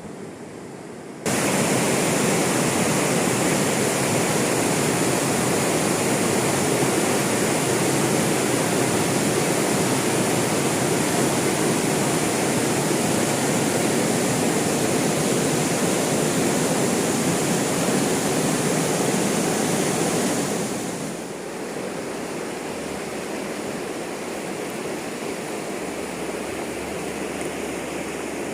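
Waterfall, its water rushing as a steady, even noise. The sound jumps suddenly louder about a second in and drops somewhat about twenty seconds in.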